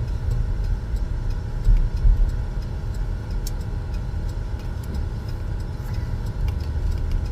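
Steady road and engine noise inside a moving car's cabin, a low rumble with a few faint clicks.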